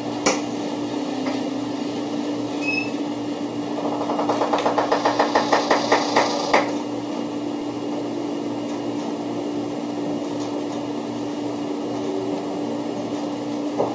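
0 series Shinkansen heard from inside the carriage while running, with a steady low hum. A single sharp click comes just after the start, and a quick run of evenly spaced wheel clacks on the track comes from about four seconds in to about six and a half.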